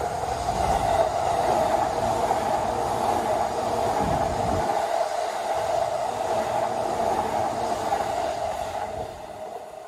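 An orange-striped Chūō Line commuter train passing close by: a steady rush of wheels running on the rails with a low rumble under it, fading away near the end as the last cars go past.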